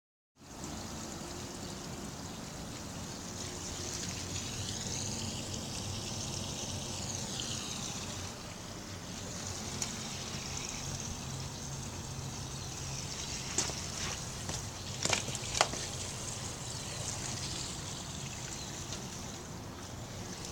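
1939 Standard Cadet toilet flushing and refilling: steady running water with a hiss that wavers in pitch. A few sharp clicks come about two-thirds of the way through.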